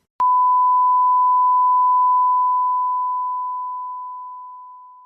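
A single pure electronic beep tone, starting abruptly with a click, holding steady for about two seconds, then slowly fading away.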